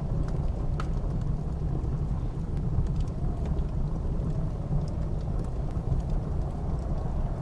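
Blizzard wind blowing steadily with a deep rumble, with occasional sharp crackles and pops of a wood fire.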